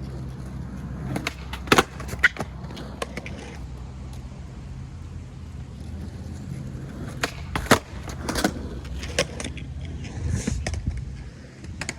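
Skateboard rolling on concrete with a steady low rumble, broken by sharp clacks of the board popping and landing, loudest twice: about two seconds in and again near the middle.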